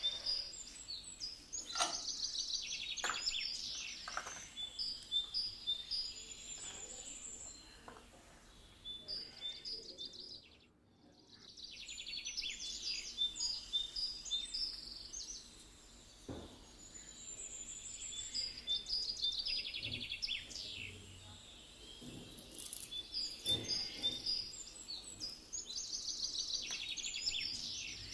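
Songbirds chirping and trilling in repeated bursts of high calls, with a brief gap about eleven seconds in. A few faint clicks sound in between.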